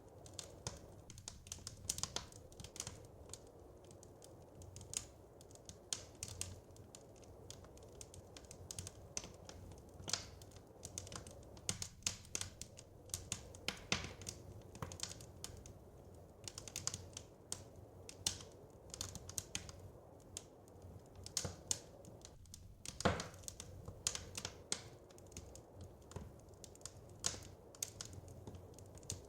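Wood fire crackling: irregular snaps and pops over a low, steady rumble, with one louder pop about three quarters of the way through.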